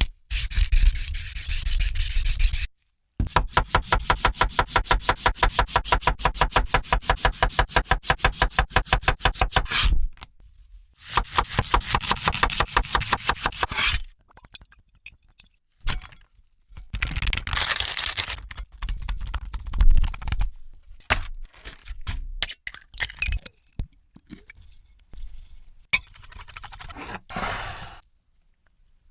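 Food-preparation sounds: a scraping stretch, then a long run of fast, even taps of about eight or nine a second for some seven seconds, another scraping stretch, and then scattered clicks and knocks.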